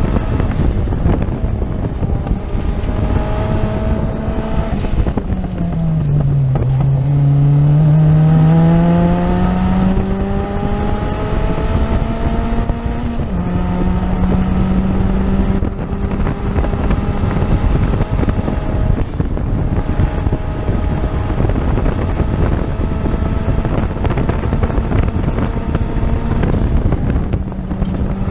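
Race car engine heard from inside the caged cockpit, running hard at speed over wind and road noise. The engine note dips about five seconds in, climbs over the next few seconds, jumps up abruptly about thirteen seconds in, and then holds steady.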